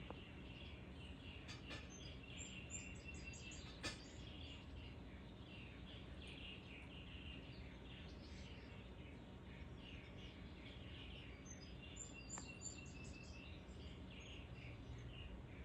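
Songbirds chirping and calling, faint, over a steady low background hum, with two short runs of high, thin notes. One sharp click a little under four seconds in.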